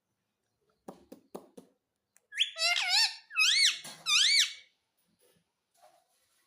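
Pet rose-ringed parakeet giving three loud, high, rising-and-falling squawking calls about two seconds in, after a few soft clicks.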